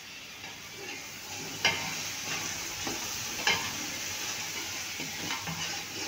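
Curd and fried onions sizzling in hot oil in an aluminium pot while a steel ladle stirs them, scraping through the mix. The ladle clanks sharply against the pot twice, about 1.5 and 3.5 seconds in, with lighter knocks between.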